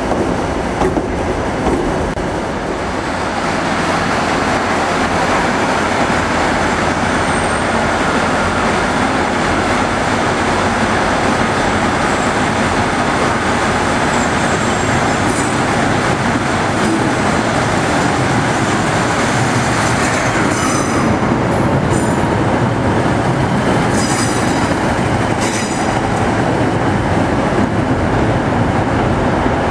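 Scotrail multiple units, a Class 314 electric and a Class 156 diesel, running through the station over rails and points, a steady loud rumble. Several brief high-pitched wheel squeals come in the second half.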